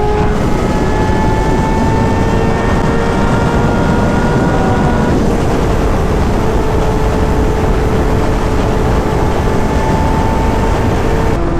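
Sportbike engine under way at cruising speed, its note held steady with a slow rise and dropping in pitch near the end, under heavy wind noise on the microphone.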